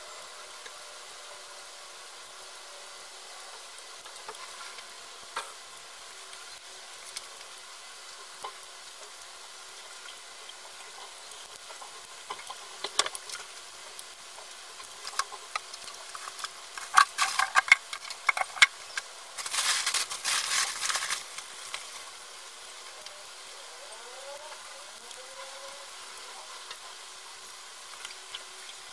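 Pork meatballs shallow-frying in hot oil in a small nonstick pan: a steady sizzle. Around the middle there is a run of sharp clicks, and about two-thirds of the way through a louder noisy burst lasting a second or two.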